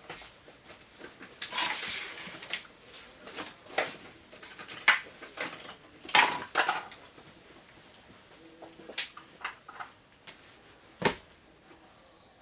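Packing gear being handled by hand: a brief rustle about two seconds in, then scattered clinks and knocks of hard metal and plastic items being picked up and set down, the sharpest four a few seconds apart.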